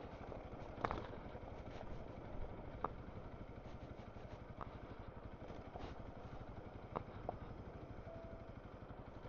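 Honda CRF300L's single-cylinder engine running steadily at low revs, heard faintly through a helmet microphone, with a few light clicks and rattles scattered through.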